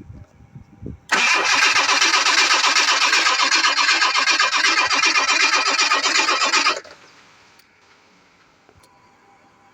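Starter motor cranking the 1986 Jaguar XJ6's straight-six engine for about six seconds with a fast, even churning beat, then stopping abruptly without the engine catching: a no-start after two years of sitting.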